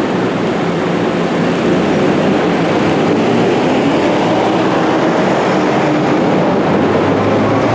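Scania coach running steadily, a continuous rumble of engine and road noise, with a faint rising whine near the end.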